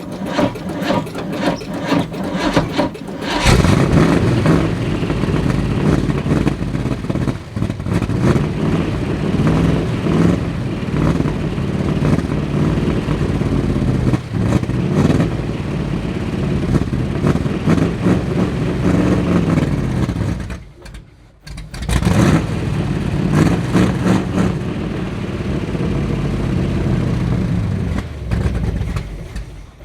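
A cold engine in an old vehicle cranks on the starter for about three seconds, then catches and runs with revs rising and falling. It dies about twenty seconds in, fires again a second or so later, and runs until it is shut off near the end.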